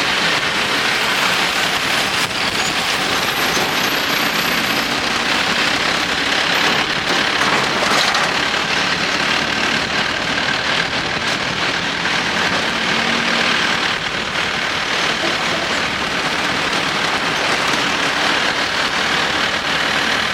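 Ride in a songthaew pickup-truck taxi: steady engine and road noise.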